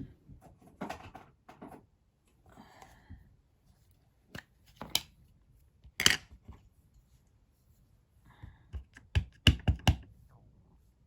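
Craft supplies handled on a worktable: scattered sharp taps and clicks of stamps and card, with soft rustles of paper, the loudest tap about six seconds in and a quick run of taps near the end.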